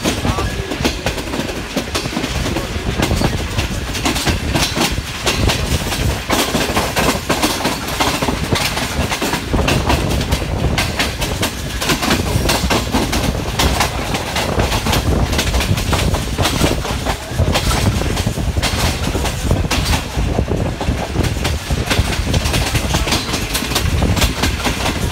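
Moving passenger train, heard from an open door of a coach: wheels clattering on the rails in a constant run of sharp clicks and knocks over a steady rolling rumble and rush of air.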